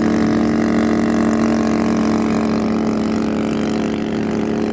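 An engine running steadily at one speed, with a constant hum that does not rise or fall.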